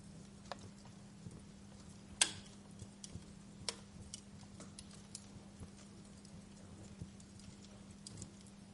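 Wood fire in a fireplace crackling: scattered pops and snaps at irregular intervals, the loudest about two seconds in, over a faint steady low hum.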